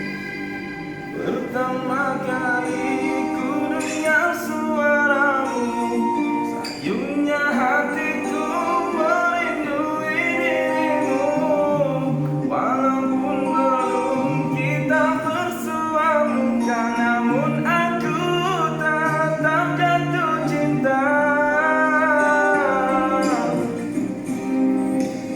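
A voice singing a melody over a steady instrumental accompaniment with guitar, the singing coming in about a second in.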